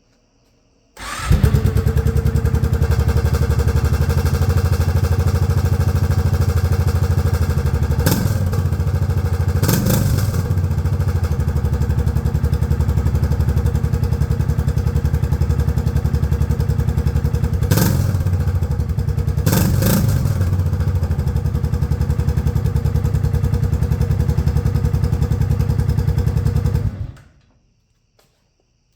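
2006 Kawasaki Brute Force 750's V-twin engine, fitted with an aftermarket MBRP Sport exhaust, starting about a second in and running steadily. It gives four quick throttle blips in two pairs, then shuts off suddenly near the end.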